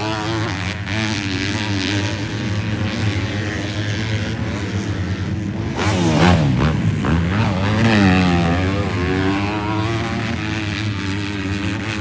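Several 250-class motocross bikes racing past, their engines rising and falling in pitch as the riders rev and shift; the loudest pass is from about six to eight seconds in.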